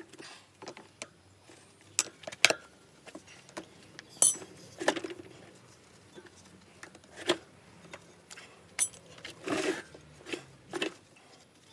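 Hand tools and metal parts clinking and knocking together in irregular sharp taps, some with a short bright ring, as motorcycle front-end parts are worked on.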